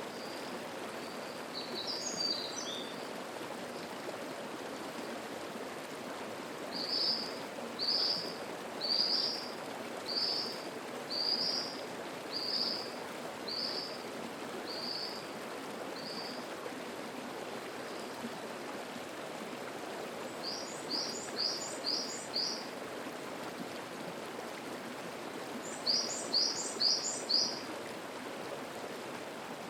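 Mountain stream babbling steadily, with a small songbird singing over it. The bird sings a few scattered chirps at first, then a run of about nine evenly spaced notes roughly one a second. Later come two quick phrases of four or five rapid notes each.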